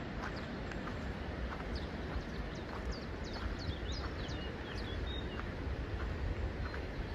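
Footsteps at a walking pace, about one and a half steps a second, over a steady low rush of coastal wind and surf. A bird gives a quick run of short, high, downward-sliding chirps from about two to five seconds in.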